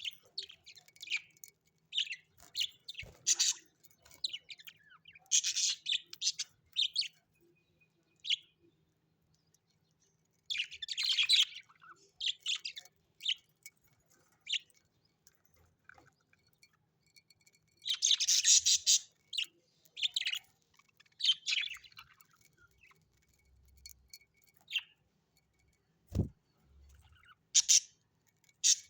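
Small birds chirping and twittering in irregular bursts with short pauses between, busiest about a fifth and again about two-thirds of the way through. There is a soft low thump near the end.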